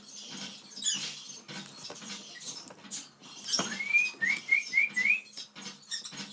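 Cockatiel moving about inside a crinkly chip bag, the bag crackling and rustling. A little past halfway it whistles a rising note followed by four quick, short rising notes.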